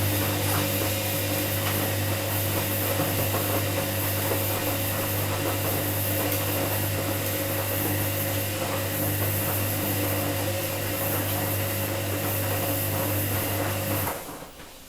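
Washing machine running with a steady low hum and a rushing noise, cutting off abruptly about a second before the end.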